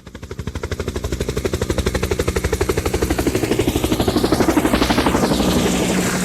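Helicopter rotor beating in rapid, even pulses, growing louder as it approaches and loudest about four to five seconds in as it passes close by, then starting to fade.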